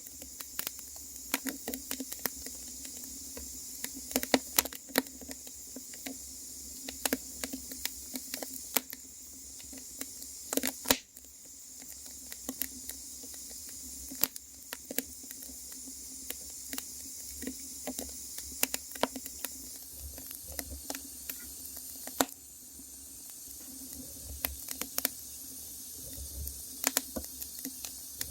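Wood fire crackling: irregular sharp pops and snaps over a steady hiss, with a louder pop or two now and then.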